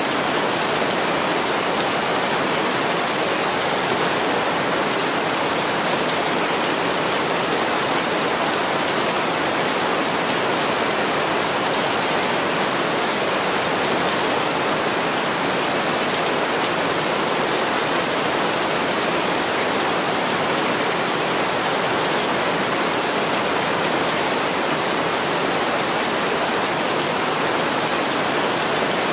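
Heavy rain pouring onto a window pane, a steady, even hiss that never lets up.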